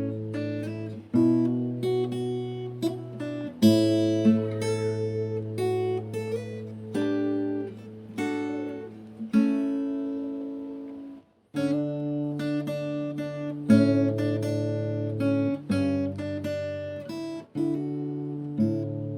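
Background music: an acoustic guitar playing plucked notes and chords, with a brief pause about eleven seconds in.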